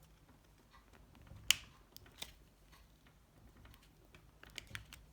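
A plastic card prying at the snap-fit upper housing of a Nokia 7373: faint scraping with one sharp plastic click about one and a half seconds in and a few smaller clicks near the end.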